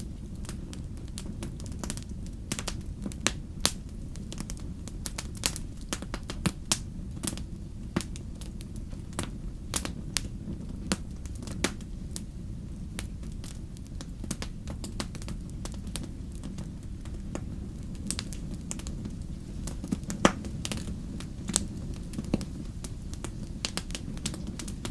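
Wood fire in a fireplace crackling: irregular sharp pops and snaps, several a second, over a steady low rumble of the flames, with one louder pop about twenty seconds in.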